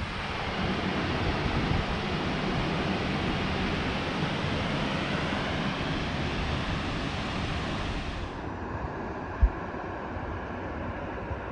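Steady rushing roar of a waterfall mixed with wind on the microphone; the hiss thins out about eight seconds in, and a single low thump comes about a second later.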